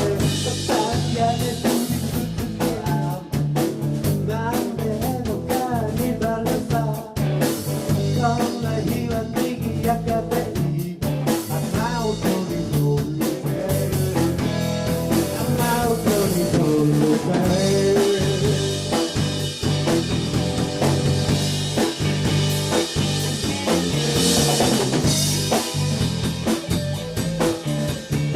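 Rock band playing, with drum kit and guitar under a wavering lead line.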